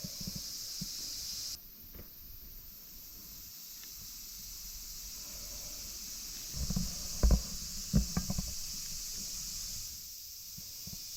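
Parts of a folding aluminium-alloy camp table being handled during assembly: soft rustling, then a few low knocks and thuds about seven to eight seconds in. A steady high hiss runs underneath.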